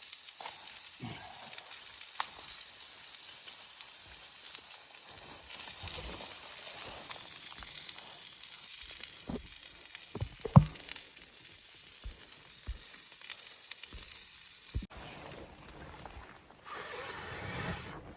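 Steady sizzling hiss with scattered knocks and clicks; one sharp knock about ten and a half seconds in is the loudest. The sound changes abruptly about fifteen seconds in.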